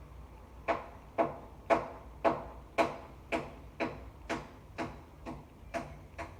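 Steady, evenly spaced knocking, about two strikes a second, a dozen in all, each sharp knock with a short ringing tail; the first few are the loudest.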